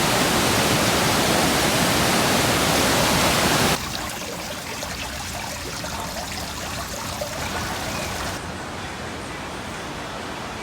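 Rushing water, a loud steady rush that cuts abruptly to a much quieter, duller rush about four seconds in.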